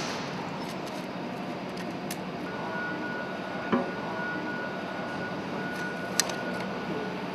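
Steady machinery-space hum with three sharp metallic clicks and a faint high steady tone that starts about two and a half seconds in, as the exhaust cladding is taken off a MaK M 32 C diesel engine's cylinder.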